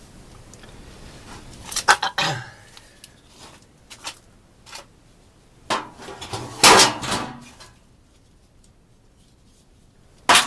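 Metal clattering and knocking as furnace parts are handled and fitted back in place: a few separate clanks and scrapes, a louder clatter about two seconds in and a longer one around seven seconds, then a single sharp click near the end.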